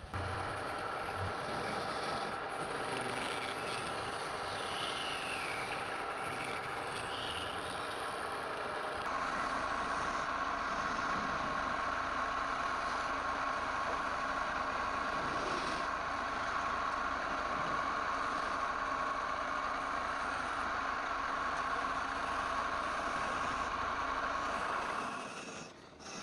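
A wood lathe running steadily, its motor hum held under a noisy wash. About a third of the way in the tone shifts and gets a little louder, and it dips briefly near the end.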